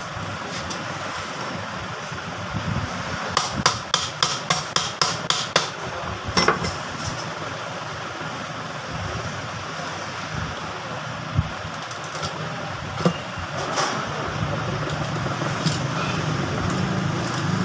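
Hammer tapping on a ceiling fan's motor housing to work it open: a quick run of about eight taps, then a few single knocks.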